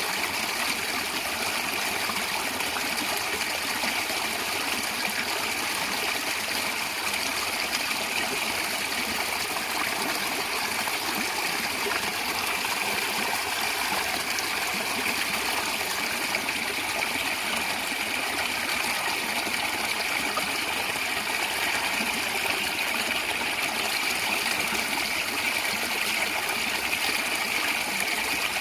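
Small stream of water gurgling and trickling steadily over stones, an even, unbroken splashing.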